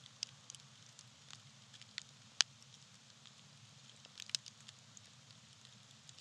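Small campfire burning tree bark, crackling: scattered sharp pops and ticks over a faint steady background, the loudest pop about two and a half seconds in and a quick cluster of pops just past four seconds in.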